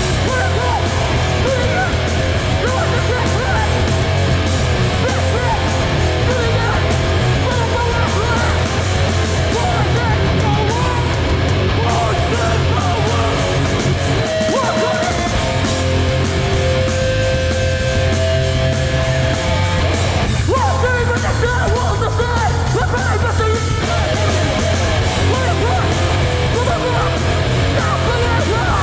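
Hardcore punk band playing live at full volume: distorted guitars and drums under yelled vocals.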